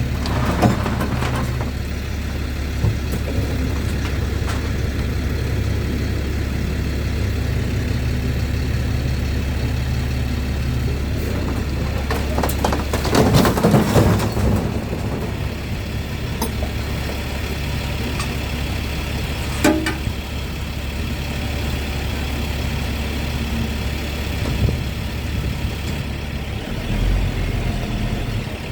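Vehicle engine running steadily at low speed, with a louder burst of noise about halfway through and a sharp click a few seconds later.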